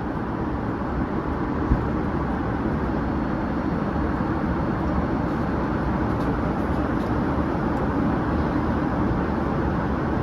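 Steady cabin noise inside a Boeing 787 airliner: engine and airflow noise heard from a passenger seat, with one light knock a little under two seconds in.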